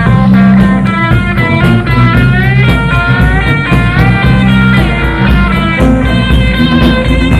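Live blues-rock band playing an instrumental passage, taken from the soundboard: a lead electric guitar plays notes that bend up and down over bass guitar and drum kit.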